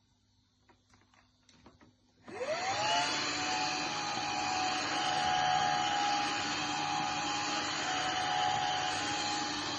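A few faint clicks, then about two seconds in a Xiaomi Truclean W20 wet-dry vacuum switches on. Its motor whine rises quickly and settles into a steady run.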